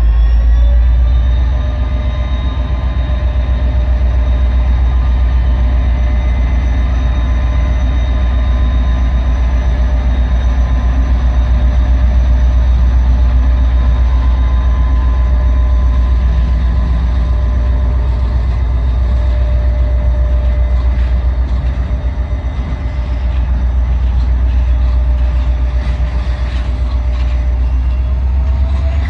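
Train running close by: a heavy, steady low rumble with several steady whining tones over it. The whine rises in pitch in the first second and again near the end.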